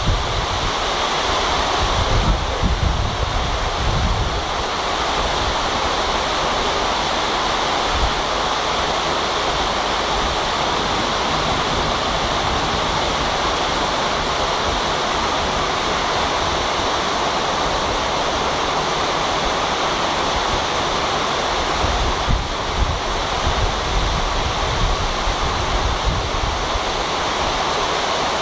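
Heavy rain falling in a steady, loud hiss. Gusts of wind rumble on the microphone in the first few seconds and again about two-thirds of the way through.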